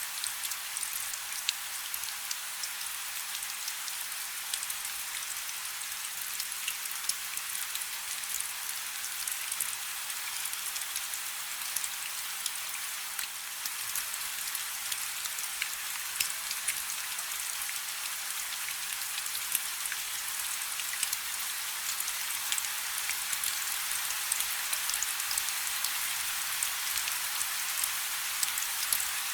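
Light rain falling steadily: an even hiss with scattered ticks of single drops.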